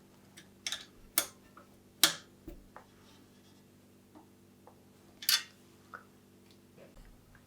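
Tools and small metal bike parts being handled during a mountain bike build: a run of sharp clicks and short clatters, the loudest about two seconds in and again just past five seconds, over a faint steady low hum.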